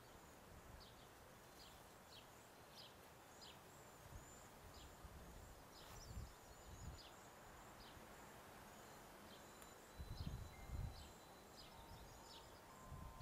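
Near silence with faint high bird chirps repeating every second or so, and a few dull low bumps, the loudest about ten seconds in.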